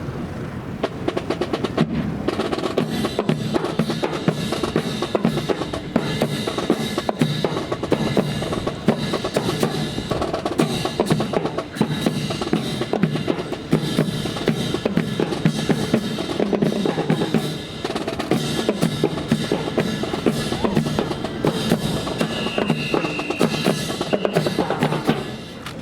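A drum ensemble playing a fast, driving rhythm of dense strikes without a break, with a short lull about halfway through.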